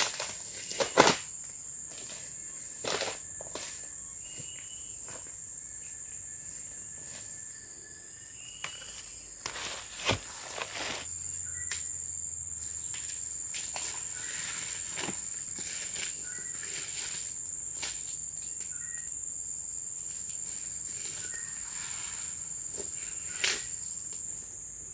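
Insects keep up a steady high-pitched drone. Short chirps come through it in the first several seconds, and sharp clicks and knocks of handling or footsteps break in, the loudest about a second in and around ten seconds in.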